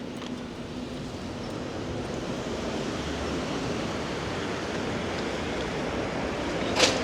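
Steady hiss of rain on a wet town street, slowly getting louder, with one short sharp clack near the end.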